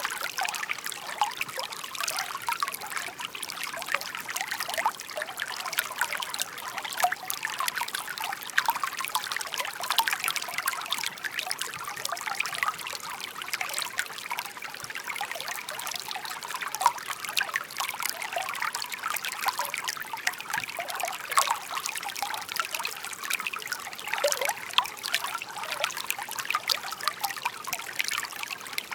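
Shallow babbling stream: a steady, dense chatter of small trickles and splashes, mostly high-pitched, with no deep roar.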